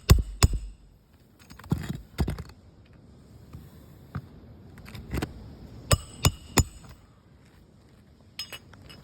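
Irregular sharp clicks and cracks, some with a brief high ring, as brittle asphalt roof shingles are handled and crack apart. They come in small clusters, the loudest group about six seconds in.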